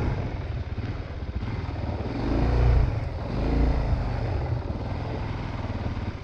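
Motorcycle engine idling with an even, rapid pulse, revved up and back down twice near the middle.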